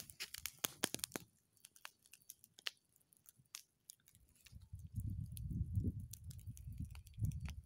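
Campfire of burning grass crackling faintly, with scattered sharp pops. From about five seconds in, a low rumble joins.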